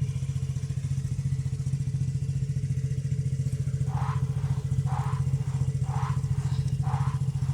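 Four-cylinder engine idling steadily with a fast, even pulse. In the second half, four short high chirps come about once a second.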